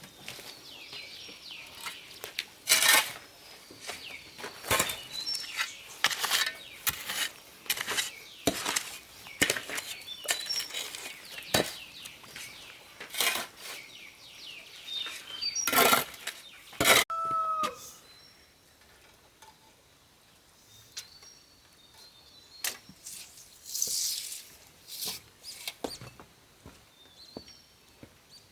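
Irregular sharp knocks and scrapes, coming thick and fast, then thinning out after about two-thirds of the way through, with a brief pitched squeak or call in the middle.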